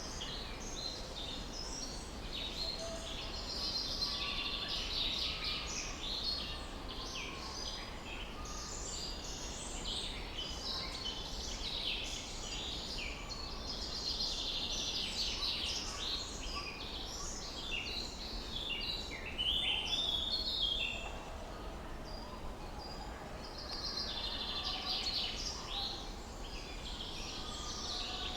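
Several songbirds chirping and trilling, their songs overlapping in waves that swell and fade, over a steady low background hum.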